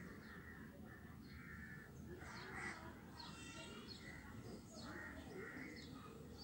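Faint bird calls: a few short, harsh calls, the clearest about two and a half seconds in, then more a second later and again near five seconds.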